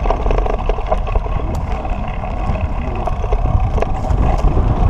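Wind buffeting a handlebar-mounted action camera's microphone, with scattered clicks and rattles from the bicycle jolting over a rough dirt road.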